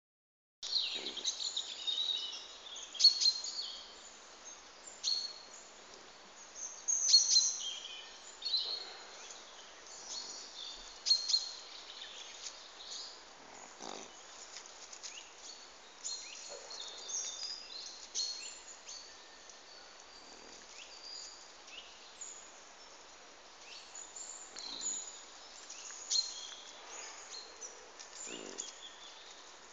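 Small woodland birds chirping and calling in short, scattered notes, busiest in the first several seconds and sparser after.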